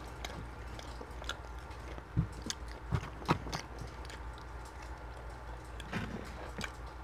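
Close-up chewing and mouth sounds from eating chicken shawarma and rice, with a few sharp clicks about two to three and a half seconds in and again near six seconds.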